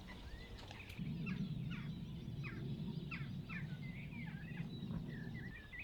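Small songbird singing: a quick series of short, high, downward-sweeping notes followed by twittering phrases. A low steady rumble underneath starts about a second in and stops near the end.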